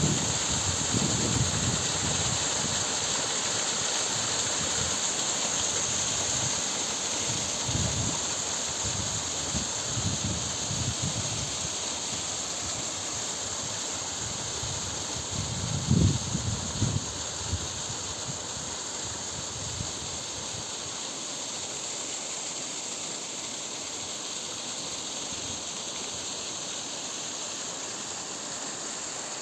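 Waterfall's steady rushing of falling water. Irregular low buffeting on the microphone comes and goes through the first half, loudest about sixteen seconds in.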